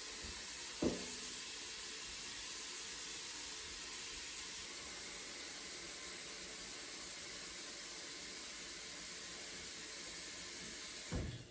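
Cold water pouring steadily into the Instant Pot's stainless-steel inner pot, with a short knock about a second in; the flow stops with a thump near the end.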